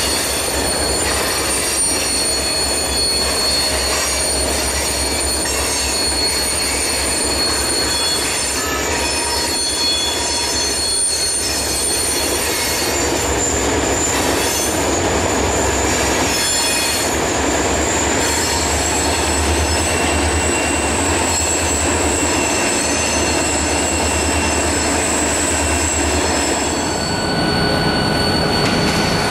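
Freight train rolling past, its steel wheels squealing in thin, high, steady tones over the rumble of the cars. The sound changes abruptly near the end.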